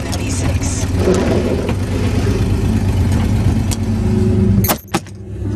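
Ford Ranger pickup's engine running and revving under load, heard from inside the cab. About three-quarters of the way through there is a sharp click, and the sound drops away for about a second before coming back.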